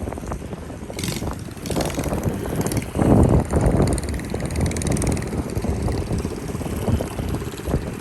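Small mini bike engines running, with wind gusting across the microphone.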